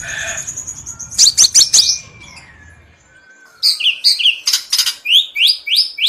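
Crimson sunbird (kolibri sepah raja) calling: sharp high chirps about a second in, a short lull with a faint falling whistle, then a fast run of high, downward-sweeping chirps in the second half.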